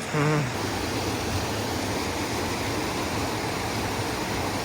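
Rushing river water running steadily. A brief wavering vocal call sounds in the first half second.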